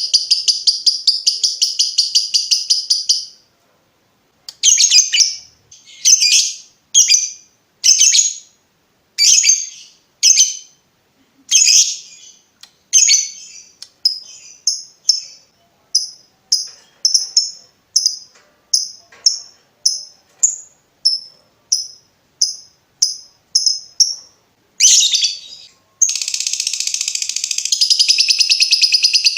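Lovebird calling: a rapid, continuous chattering trill (the long 'ngekek') that stops about three seconds in. After a short pause come separate sharp, high chirps about one a second, which then turn shorter and quicker (the clipped 'ngetik'). A long rapid chatter starts again near the end.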